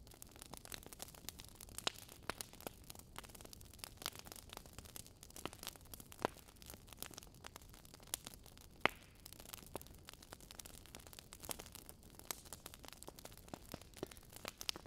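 Wood fire in a fireplace crackling: irregular sharp pops and snaps over a faint hiss.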